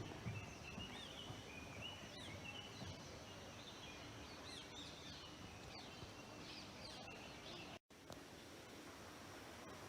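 Several birds chirping and whistling in short, high, overlapping calls over a steady faint hiss. The calls thin out after about seven seconds, and the sound cuts out for an instant just before eight seconds.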